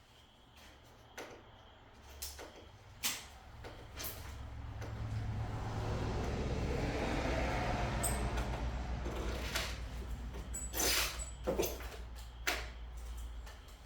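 Packaging being handled during an unboxing: scattered clicks and knocks, with a rustling, scraping sound that swells and fades in the middle and a cluster of louder knocks near the end.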